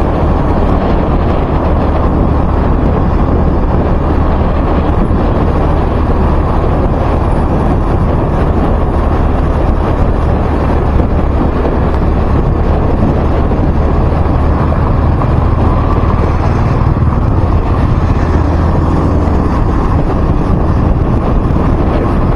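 Steady loud rush of a vehicle travelling at speed on a highway: road and engine drone mixed with heavy wind rumble on the microphone.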